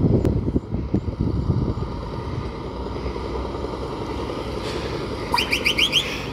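Scania S500 truck engine, a loud low rumble over the first second or two that settles into a steady low drone. Near the end comes a quick run of about seven short rising chirps.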